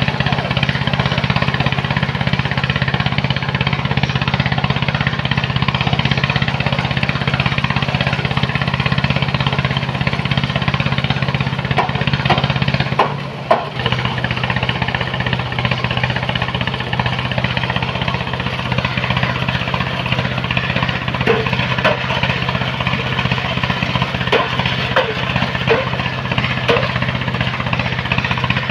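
Engine of a sand-loading machine running steadily at constant speed with a low hum. It dips briefly about halfway through, and small knocks are scattered through the second half.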